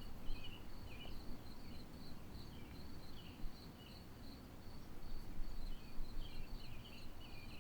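Faint background ambience: an insect trilling in a steady, pulsing high tone, with scattered short bird-like chirps over a low rumble.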